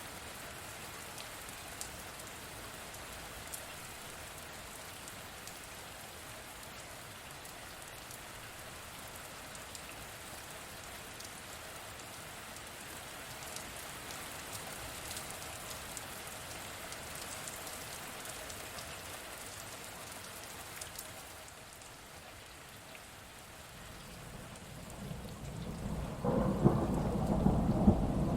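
Steady rain falling with scattered drops ticking, then a low thunder rumble building near the end and growing loud in the last couple of seconds.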